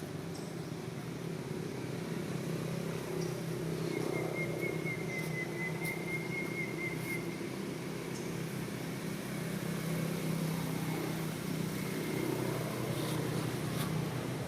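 Steady outdoor background hum with a low drone, and a thin, high, steady whine held from about four seconds in until near the end.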